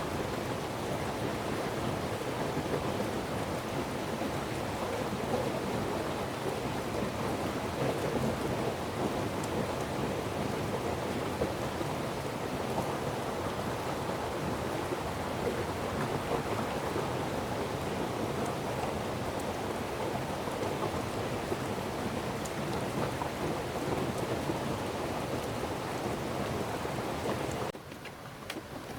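Steady heavy rain pouring down, an even hiss with no single sound standing out, which drops away abruptly near the end.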